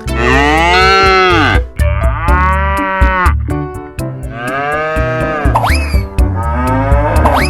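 Three long drawn-out calls, each rising and then falling in pitch, heard over background music, ending in a short upward sweep.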